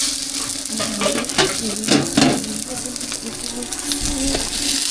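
Flatbread cakes frying in oil on a street-stall griddle, a steady sizzle, with a few knocks of a cooking utensil about two seconds in. A steady low hum runs underneath.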